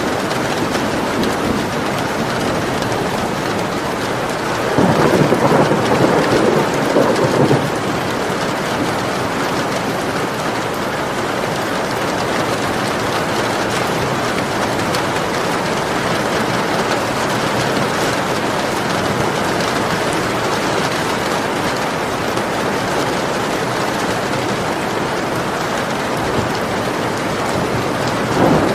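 Steady, even rain with a louder rumble of thunder about five seconds in that lasts a couple of seconds, and another rumble starting at the very end.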